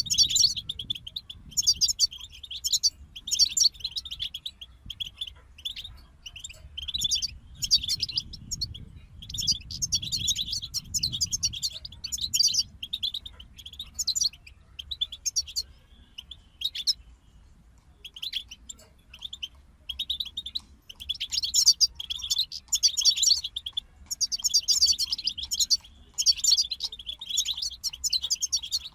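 European goldfinch song: fast, twittering, trilling phrases in runs of a second or more, broken by short pauses, with a longer break about two thirds of the way through.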